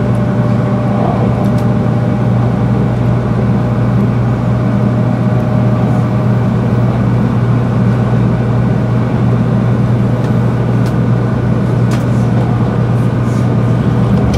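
Steady running noise inside a motored car of a Shinkansen 300 series train: a loud, even low drone with a few steady tones above it, holding the same pitch throughout.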